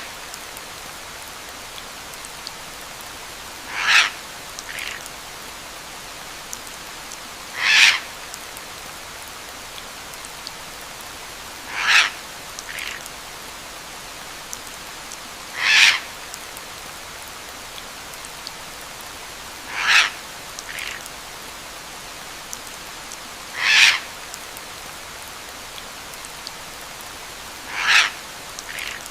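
Steady rain hiss with a single bird call repeating at even intervals of about four seconds, most calls followed by a shorter, fainter note.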